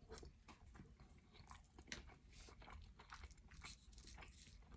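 A person chewing food close to the microphone: faint, irregular small wet clicks and crunches of the mouth.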